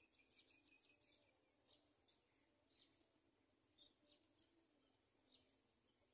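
Faint high chirps of house sparrows at the nest: a quick run of short chirps in the first second, then single chirps about once a second.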